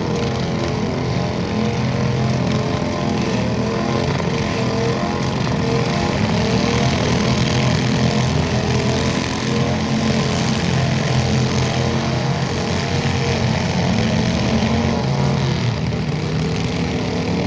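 A tractor engine running steadily and loud, holding an even speed.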